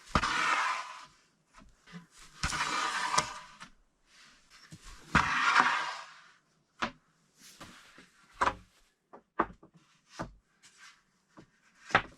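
Wooden tongue and groove boards being handled: three scraping slides of about a second each, then a string of sharp knocks as boards are set down and stacked.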